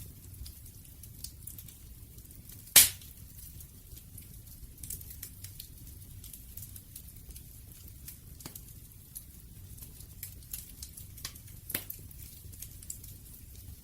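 Wood fire burning with scattered crackles and sharp pops over a low steady rumble. One pop, about three seconds in, is much louder than the rest.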